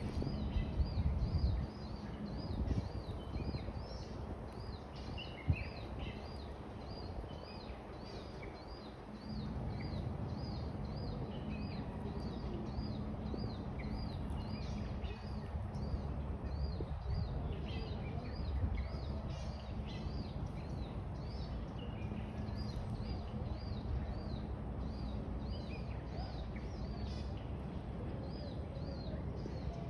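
A bird repeating a short high call about twice a second, with other birds chirping now and then, over a low outdoor rumble that gets louder about nine seconds in.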